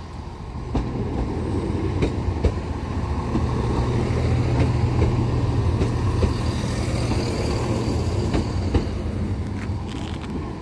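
Class 171 Turbostar diesel multiple unit passing close along the platform: its underfloor diesel engines drone steadily, growing louder as it draws level about four to six seconds in, with the wheels clicking over rail joints.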